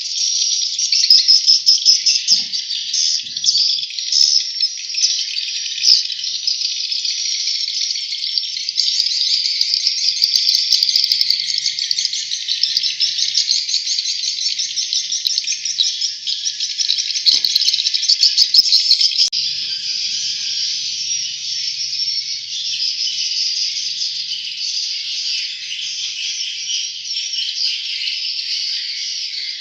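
Swiftlet chicks chirping continuously, a dense high twittering chorus with rapid trilled notes.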